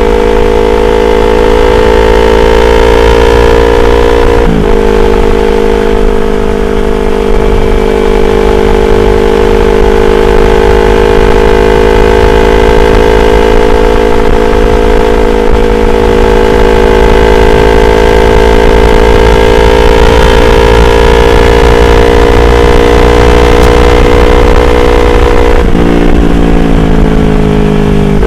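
Yamaha R25's 250 cc parallel-twin engine running under way, its note climbing slowly, with a brief dip about four and a half seconds in. Near the end the engine note falls sharply as the throttle is closed, over a steady low wind rumble.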